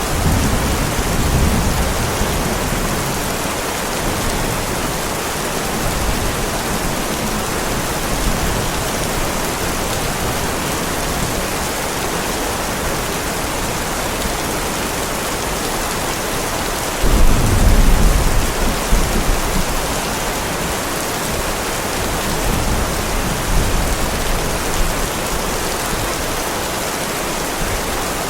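Heavy rain falling steadily, with rolling thunder: a low rumble right at the start and a louder one that breaks in suddenly about two-thirds of the way through and rolls on for a few seconds.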